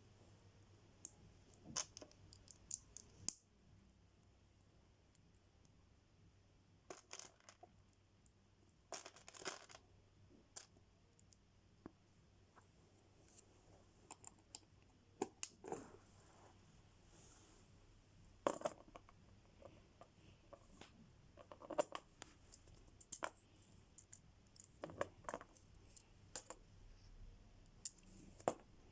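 Faint, scattered clicks and taps of plastic Lego pieces being handled, some in quick runs of two or three, with a few short rustles.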